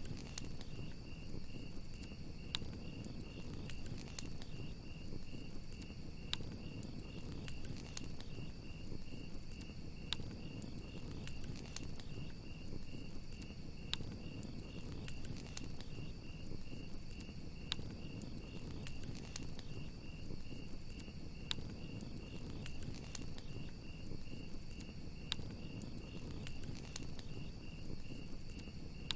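Crickets chirping in a steady, evenly pulsed rhythm over a crackling campfire: scattered sharp pops and snaps from the burning wood above a low, continuous rush of flame.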